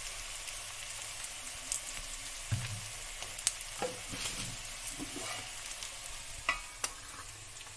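Chopped onion, garlic, ginger and green chilli sizzling in hot mustard oil in a kadai, the onions nearly browned. A few sharp clicks and short knocks come through the steady frying hiss.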